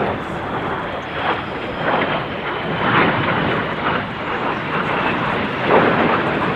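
Jet aircraft flying a display pass: a steady rushing jet engine noise that swells and eases.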